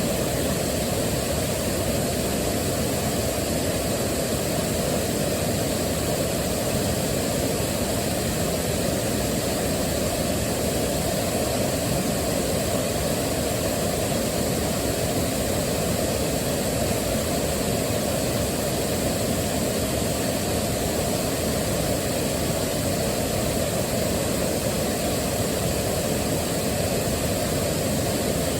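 Waterfall rushing, a steady deep roar of falling water.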